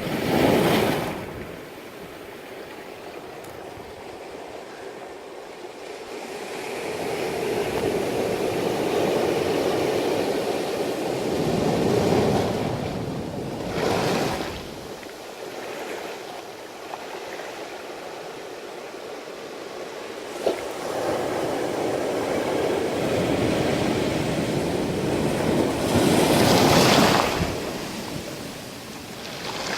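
Ocean surf: waves washing in and breaking on a beach, swelling and falling away every few seconds, with the loudest wave near the end.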